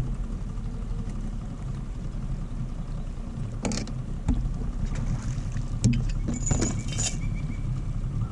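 A boat's motor running with a steady low hum, with a few sharp knocks and clicks about halfway through.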